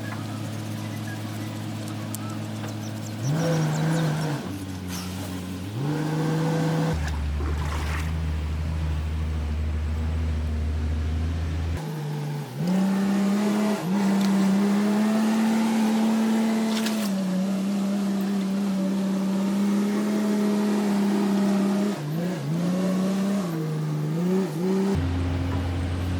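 Backhoe loader's diesel engine running and revving, its pitch rising and falling several times, with a few abrupt jumps in the sound.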